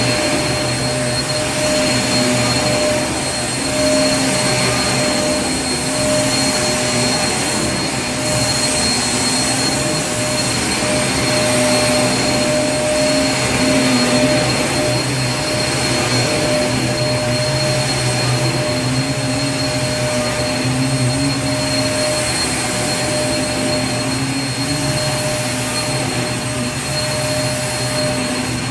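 Vacuum cleaner running steadily: a continuous motor whine and airflow hiss with a few fixed tones and small swells in level.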